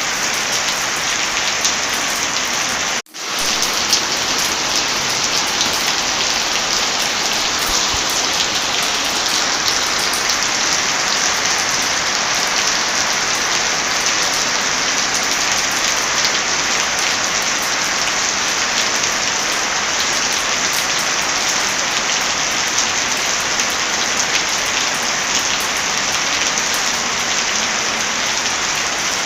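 Heavy rain falling steadily, mixed with fine crackles from a fireplace. The sound cuts out for a split second about three seconds in, then resumes.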